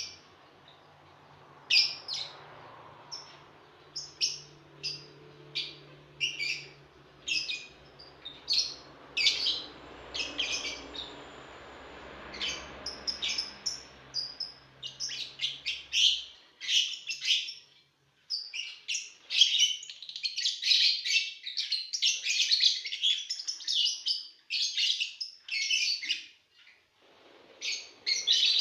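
Lovebirds chirping: short, high-pitched calls, spaced out at first, then crowding into a dense, overlapping chatter from about halfway through.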